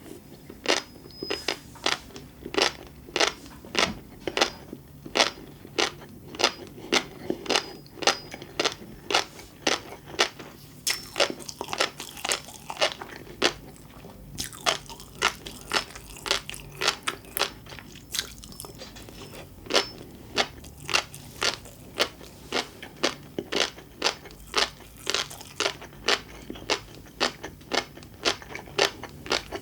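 Close-miked chewing: crisp crunching pops about two a second, with a few short pauses, as food is bitten and chewed.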